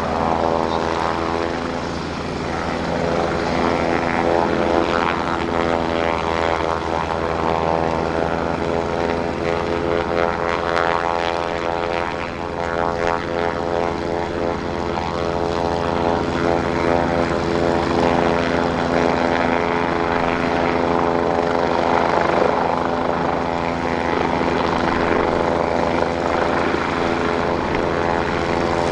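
Kawasaki BK117 C-1 helicopter at flight power, with its four-bladed main rotor and twin turboshaft engines making a steady, loud, pitched drone. The drone swells and dips slightly as the helicopter hover taxis and takes off.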